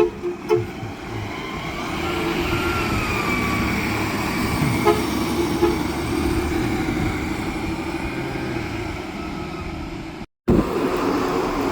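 Garbage truck: a few quick horn toots at the start, then the truck's engine running steadily with a whine that rises and falls. The sound drops out briefly near the end and picks up again with another truck running.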